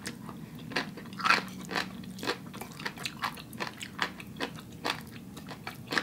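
A person chewing a mouthful of spicy instant noodles, a run of short wet clicks and smacks about two to three a second.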